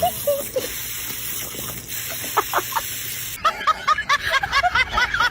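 Bird calls: a few short calls, then, from about three and a half seconds in, a rapid run of short repeated chirps, several a second.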